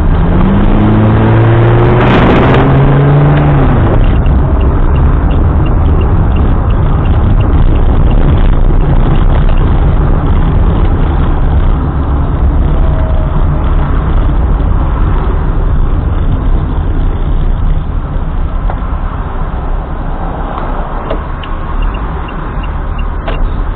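Car on the move: a loud, steady low rumble of engine, road and wind noise. In the first few seconds an engine speeds up under acceleration, its pitch rising, and about two seconds in there is a brief sharp noise.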